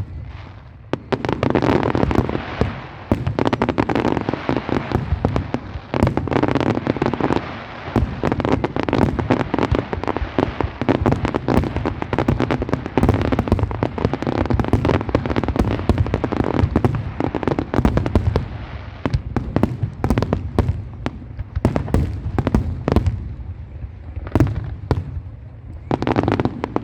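Fireworks display: a rapid, continuous barrage of overlapping bangs and crackling shell bursts.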